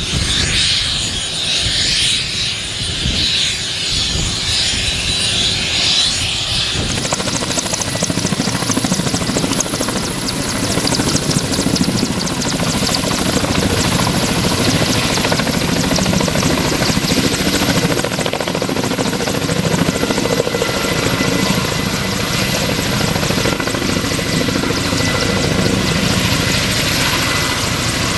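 Kamov Ka-32 helicopter running steadily, with its turbine whine and the rapid beating of its coaxial rotors. About a quarter of the way in the sound changes and becomes fuller and denser in the low range.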